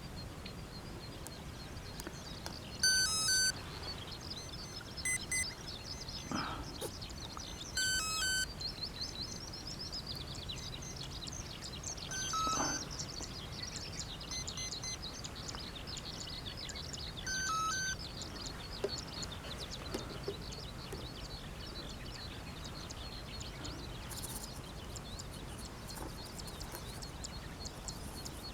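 Birds calling outdoors: short high chirps repeated every few seconds over a steady high trilling.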